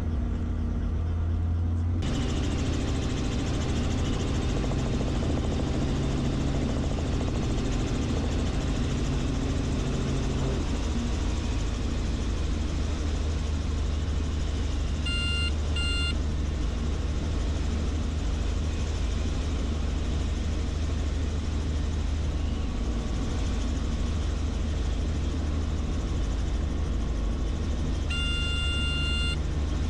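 Helicopter rotor and engine noise heard in the cabin, a steady low drone that grows sharply louder and noisier about two seconds in. A high warning tone beeps twice in quick succession about halfway through and sounds again near the end.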